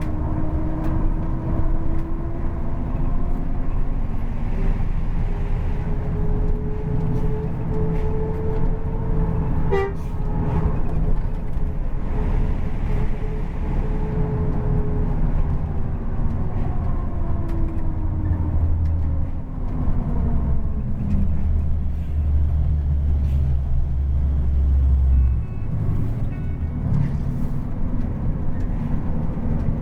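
Bus engine running through a loud racing exhaust: its note climbs slowly, holds, then falls away. A deep exhaust drone swells strongly for several seconds in the second half, then drops off suddenly.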